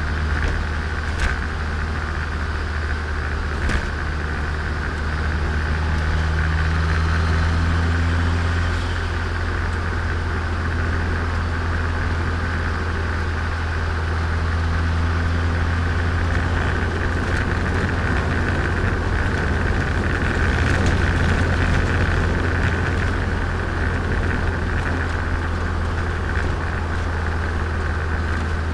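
Turbocharged Nissan Micra engine running as the car drives along, a steady low engine drone under road noise, with the engine being run in. Two sharp clicks sound within the first few seconds.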